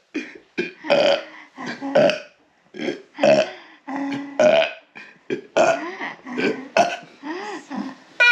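A woman burping on purpose, a rapid string of short burps one after another.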